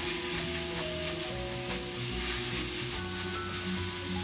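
Minced pork sizzling steadily as it fries in a skillet, stirred with a silicone spatula, over background music with held notes.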